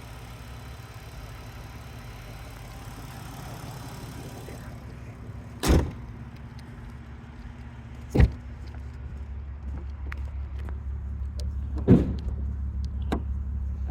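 Volkswagen R32's 3.2-litre VR6 idling steadily with a low hum, while the car is shut up with three loud slams, about six, eight and twelve seconds in, followed by a few lighter clicks. The hum grows louder after the second slam.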